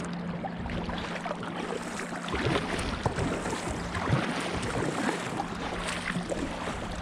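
Water sloshing and splashing irregularly against a kayak, with wind noise on the microphone and a faint steady hum.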